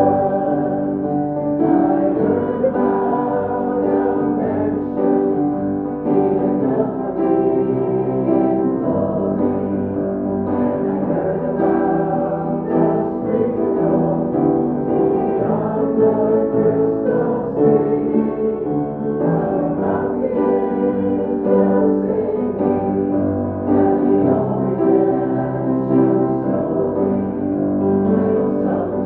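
A hymn played on piano, with voices singing along.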